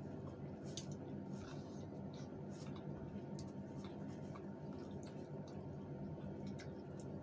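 Faint wet chewing and lip-smacking of people eating with their hands, heard as scattered short clicks and squishes over a steady low hum.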